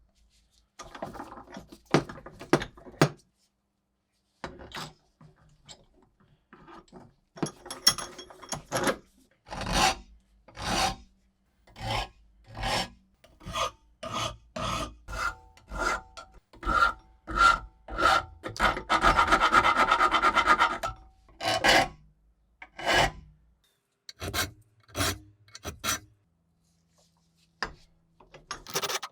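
Metal being filed by hand: separate rasping strokes about one a second, with a quick run of short strokes about two-thirds of the way through, stopping near the end.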